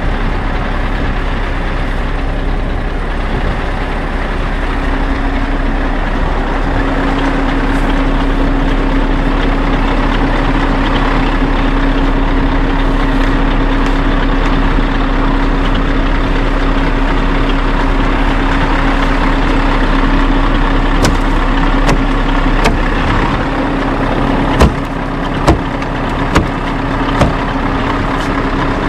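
Scania R580 truck's V8 diesel idling with a steady hum. Several sharp clicks or knocks come in the last few seconds.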